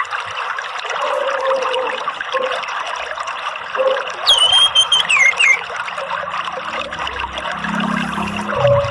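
Running water trickling and splashing steadily. About four seconds in, an orange-headed thrush gives one call that starts high, warbles, then falls in pitch.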